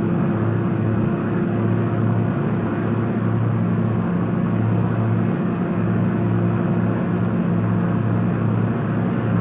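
Steady engine drone: a continuous low hum with a slow, even throb, over a wash of mechanical noise.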